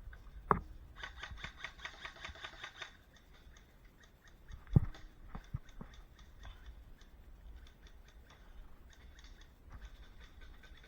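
An airsoft electric rifle firing a rapid full-auto burst of about two seconds, about ten shots a second over the whine of its gearbox, between sharp knocks and scattered ticks.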